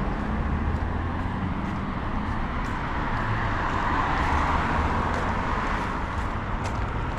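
City street traffic: cars running along the road with engine rumble and tyre noise. One vehicle's tyre noise swells and fades about four seconds in.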